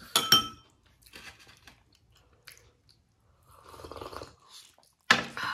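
Chewing and wet mouth sounds of eating momos (steamed dumplings), with sharp, loud mouth noises just after the start and again about five seconds in.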